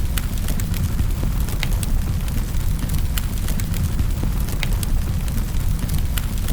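Wood fire in a fireplace crackling: irregular sharp snaps and pops, a few each second, over a steady low rumble of the flames.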